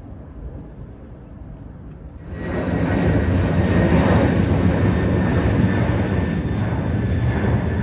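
Jet airliner engines: a faint low rumble, then about two seconds in the sound jumps suddenly to a loud jet roar with steady high whining tones that holds to the end.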